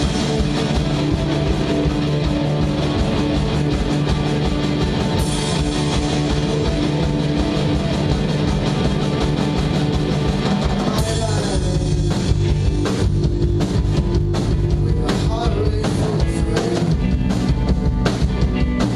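Live rock band playing an instrumental stretch with electric guitar and drum kit, the full band coming in harder about eleven seconds in.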